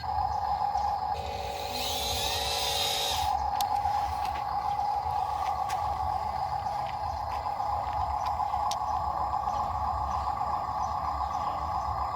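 Heavy vehicle's engine running steadily, with a constant whine over a low rumble, and a short burst of hissing air about two seconds in.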